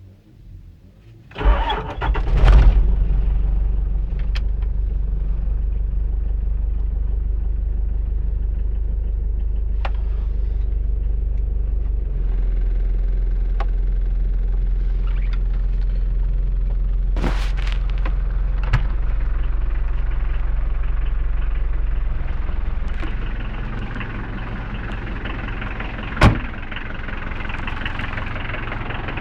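Mitsubishi Pajero Mk1's 4D56 turbo diesel cranking and catching about a second and a half in on a freezing-cold start, then idling steadily with a deep low note. The idle drops a little near the end, and there are two sharp clicks.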